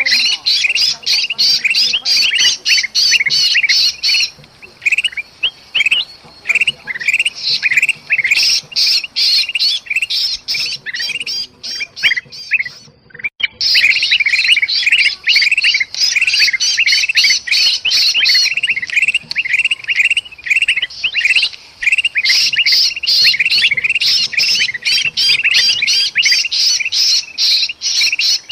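Bulbuls (kutilang) in an agitated chorus of rapid, harsh chattering and squawking calls, mixed with the distress calls of a trapped bulbul: a lure recording meant to draw other birds in. The calls thin out about four seconds in, stop briefly near the middle, then come dense again.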